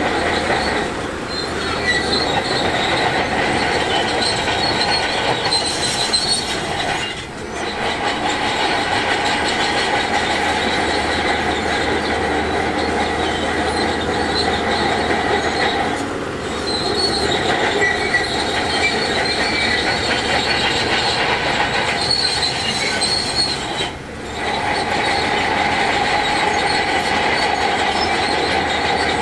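Heavy earthmoving machinery working rock, with diesel engines running under load and a steady high metallic squeal of the kind crawler bulldozer tracks make. The sound dips briefly several times.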